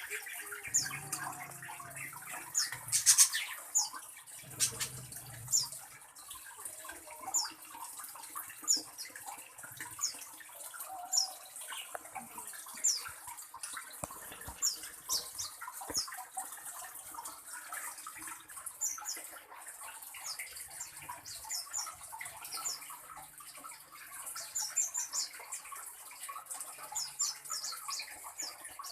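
A small bird chirping: short, high, downward chirps repeated every second or two over a steady water-like hiss. A few knocks and thuds come in the first few seconds.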